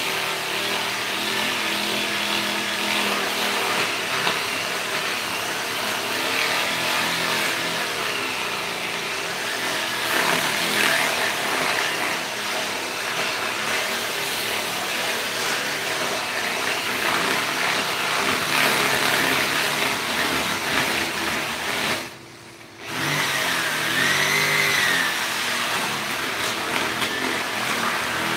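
A motor running steadily, with a brief sharp drop in level about 22 seconds in.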